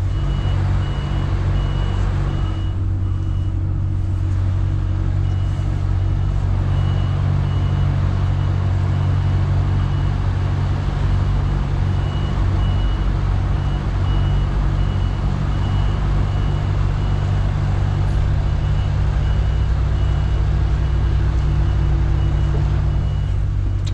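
Lorry engine running steadily at low revs while reversing, with the reversing alarm beeping about once a second.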